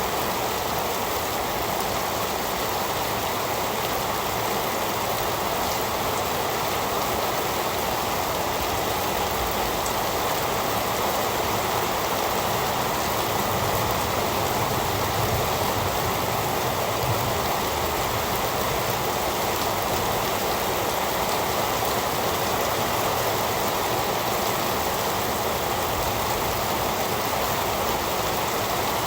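Heavy rain falling steadily: a dense, even hiss of drops with no pauses or single loud events.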